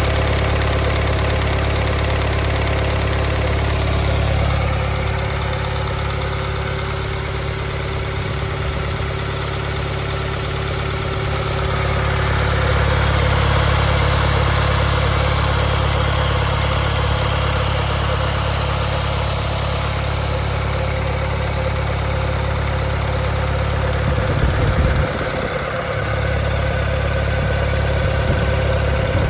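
Rebuilt Doosan diesel engine running steadily on an operational test, getting a little louder for several seconds in the middle, with a brief unsteady moment near the end.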